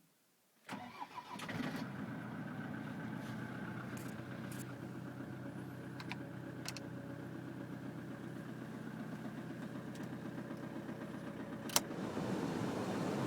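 Land Rover Defender 110 Td4's four-cylinder turbodiesel cold-starting at -5°C: it catches about a second in, runs unevenly for a moment, then settles into a steady idle. A few sharp clicks sound over the idle, and the engine gets a little louder near the end.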